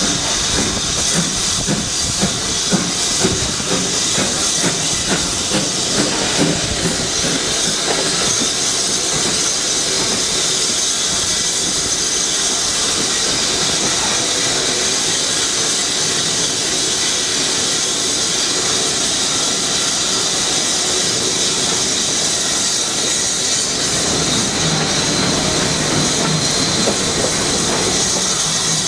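Steam locomotive hissing steadily as it lets off steam, with irregular low knocks in the first several seconds.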